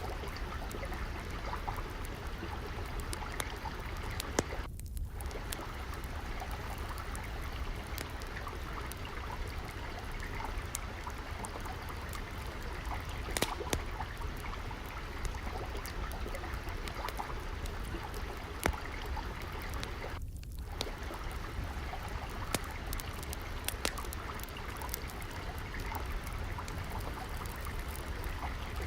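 Water trickling and flowing steadily, with scattered sharp pops and crackles from a wood fire.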